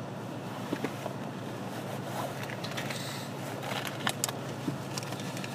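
Car engine idling: a steady low hum heard from inside the cabin, with a few faint clicks and rustles.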